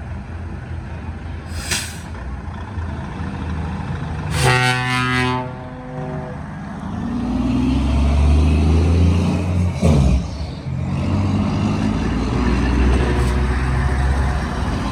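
Heavy truck engines running, with a truck air horn blowing once for about a second, about four and a half seconds in. There are short bursts of hiss near two and ten seconds, and the deep engine rumble grows heavier from about seven seconds.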